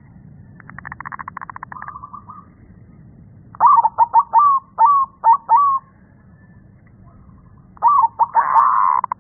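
Deep-voiced zebra dove (perkutut) singing its cooing song: a fast rattling run of notes about a second in, a phrase of six separate coos in the middle, and another burst of notes running into a trill near the end.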